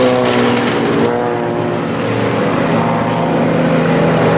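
Several IMCA Sport Compact race cars' four-cylinder engines running at once, their pitches rising and falling as they go around the dirt oval.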